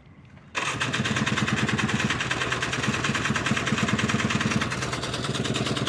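Riding lawnmower's electric starter cranking the engine for about five seconds without it catching, starting abruptly about half a second in and stopping near the end. The engine won't fire after running through floodwater; the owners suspect it lost spark from water or a fouled spark plug.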